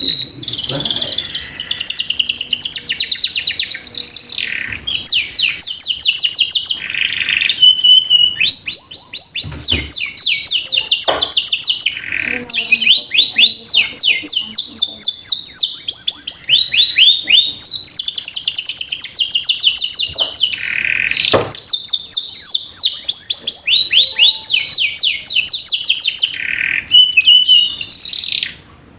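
Domestic canary singing a long, loud song of fast trills and rapidly repeated high notes, with a brief break near the end. It is a canary lure song of the kind played to get young canaries singing.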